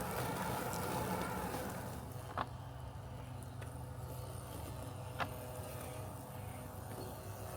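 Robotic lawn mower running with a steady low mechanical hum; a louder rushing layer above the hum fades about two seconds in. Two short sharp clicks stand out, a few seconds apart.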